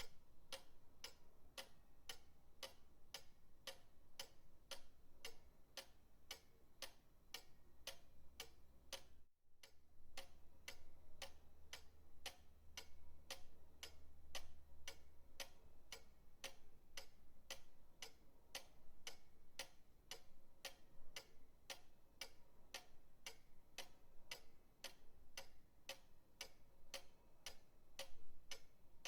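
Pendulum clock ticking in an even, unbroken rhythm of sharp clicks. There is a brief dropout about nine seconds in.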